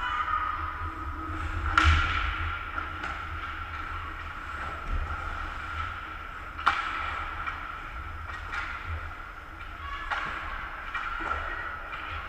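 Ice hockey game in an arena: steady hum with scattered sharp knocks of sticks and puck, the loudest about two seconds in and another near seven seconds.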